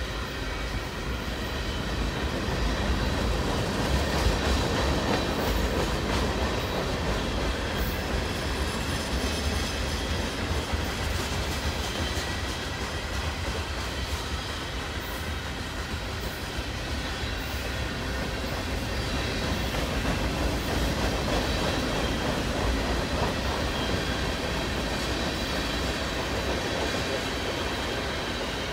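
Freight cars of a long manifest train rolling steadily past, their steel wheels rumbling and clacking on the rails.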